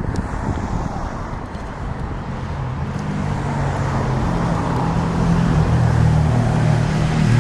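Car engine running at a low, steady pitch, coming in about three seconds in and growing louder.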